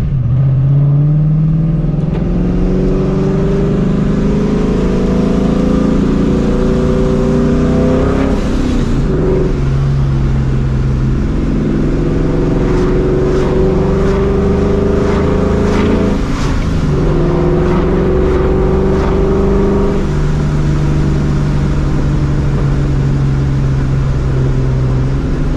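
Supercharged 4.6-litre V8 of a New Edge Mustang GT heard from inside the cabin, pulling up through the gears. The note rises, drops at a gear change, rises again, drops at a second change, then settles into a steady cruise near the end.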